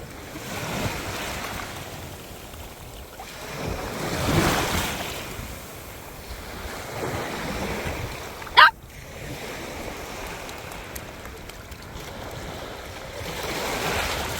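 Small waves breaking and washing up the shore, swelling and fading several times. One short, sharp dog bark comes a little past halfway.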